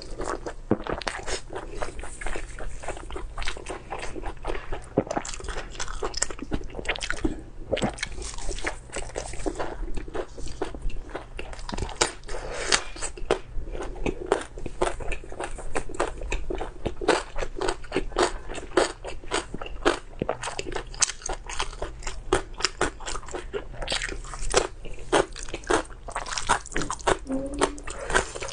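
A person eating close to the microphone: steady chewing with many quick crunching clicks each second.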